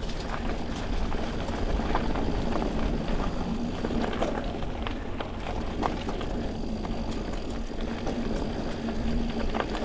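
Mountain bike rolling along a dirt singletrack trail: steady tyre rumble and wind noise with scattered clicks and rattles from the bike.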